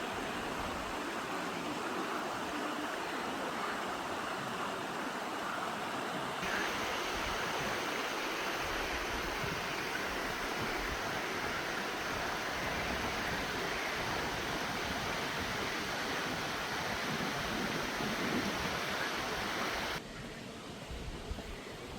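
Stream water rushing steadily, with an abrupt change in tone about six seconds in and a sudden drop in level near the end.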